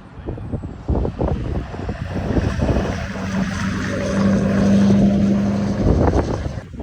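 Car engine running and holding a steady note for about three seconds before it drops away, over a steady hiss and wind on the microphone.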